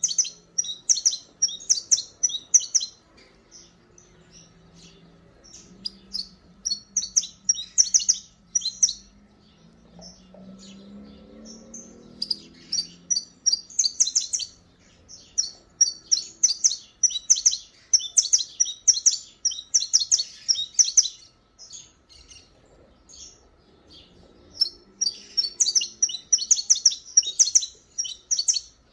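Saffron finch (canário-da-terra) singing: rapid runs of high, sharp chirping notes, delivered as several song phrases in quick succession with brief pauses between them.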